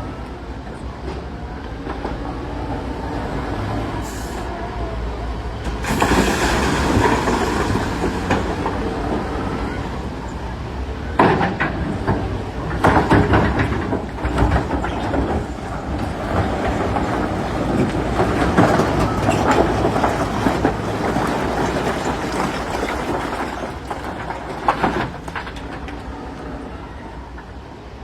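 Heavy diesel engine of a Caterpillar wheel loader working under load, with rocks grinding and clattering several times as they are scooped and dumped.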